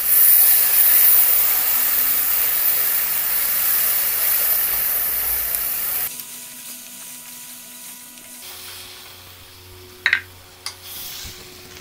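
Frying chili paste hissing and sizzling loudly in a hot pan as a little water is added and stirred in with a wooden spoon. About six seconds in it abruptly drops to a quieter simmer, with a brief knock near the end.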